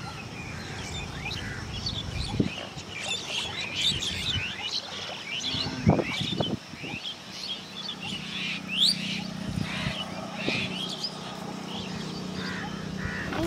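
Small birds chirping with many short, quick notes. A few soft knocks are heard, and a steady low hum sets in about halfway through.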